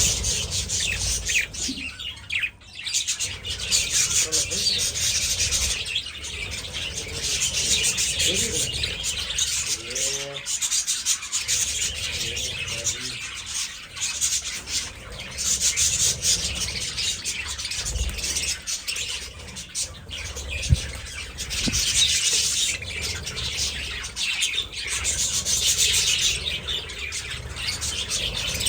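A flock of budgerigars chattering and chirping together in a dense, continuous warble that swells and dips every few seconds.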